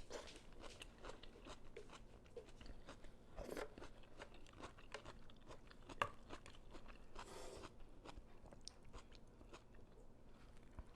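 A person chewing and eating close to the microphone, faint soft crunches and small wet mouth clicks throughout. Two brief louder swishes come around a third and two thirds of the way in, and a single sharp click about six seconds in.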